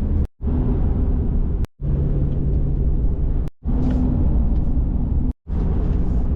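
Car driving: steady engine and road rumble, broken by abrupt cuts into silence every second and a half to two seconds.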